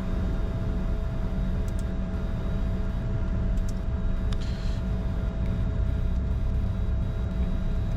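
Cockpit noise of a Bombardier Challenger 605 taxiing on the runway after landing: a steady low rumble of its twin turbofans at idle and the rolling gear, with a steady hum and a few faint ticks.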